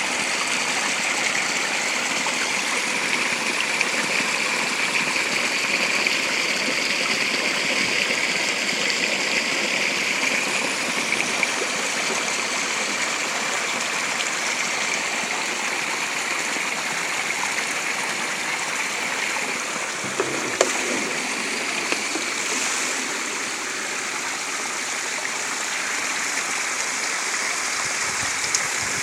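Spring water gushing hard in a steady rushing stream, with one brief knock about two-thirds of the way through.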